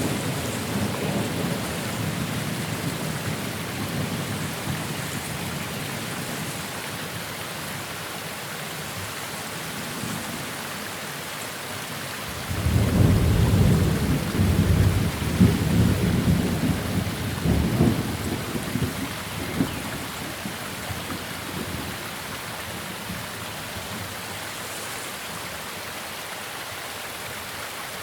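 Steady rain during a thunderstorm. A rumble of thunder fades away over the first several seconds, then a louder peal breaks suddenly about halfway through and rolls for several seconds before dying down under the rain.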